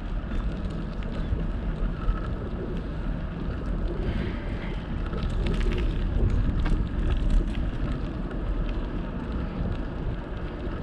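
Wind buffeting the microphone of a camera mounted on a moving bicycle: a steady low rumble, with a few faint clicks around the middle.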